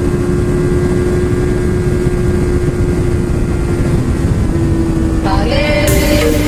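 Motorcycle engine running at a steady speed under heavy wind rush on a helmet microphone. Music with distinct notes comes in about five seconds in.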